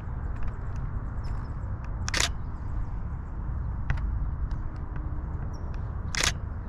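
Camera shutter firing twice, a short sharp burst about two seconds in and another about four seconds later, over a steady low rumble of wind and handling noise on the microphone.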